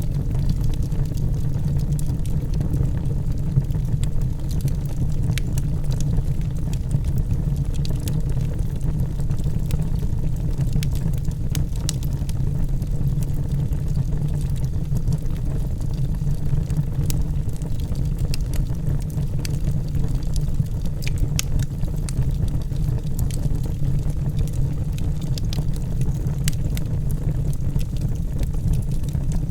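Logs burning in a fireplace: a steady low rumble of the fire with scattered sharp crackles throughout.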